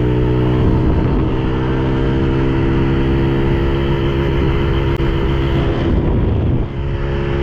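Yamaha TT-R110E pit bike's small single-cylinder four-stroke engine running under riding, its note steady at first, rising and falling with the throttle through the middle, and settling back to a steady note near the end.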